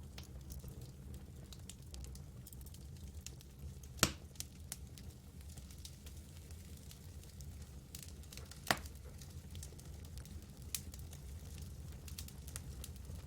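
Campfire burning, with scattered small wood crackles over a steady low background and two louder pops, about four seconds in and again near nine seconds.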